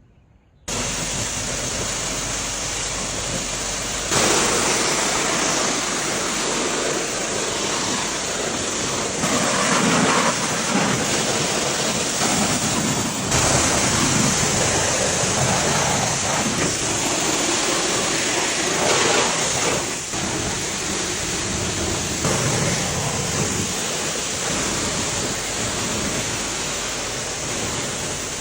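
Pressure washer spraying water, a steady hiss that starts suddenly about a second in and shifts in tone now and then.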